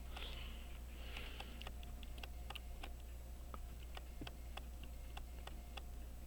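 Faint, irregular small clicks of metal watch parts and tools touching as train wheels are fitted into a pocket watch movement, over a steady low hum.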